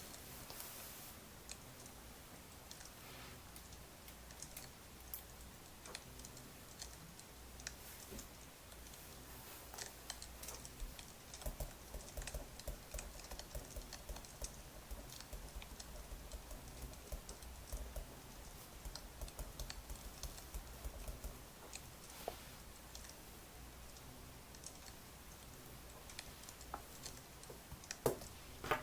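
Faint, irregular keyboard typing, soft key clicks in uneven runs over a low steady hum.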